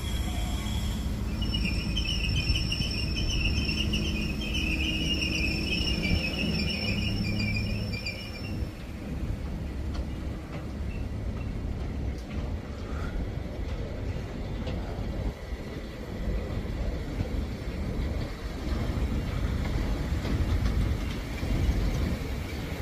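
Network Rail test train passing, its wheels rumbling on the rails. A high, warbling wheel squeal runs from about a second and a half in until about nine seconds. Later come a few sharp clicks over the rail joints.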